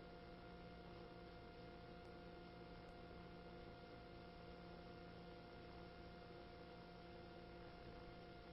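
Near silence: a faint steady hum with a few thin steady tones.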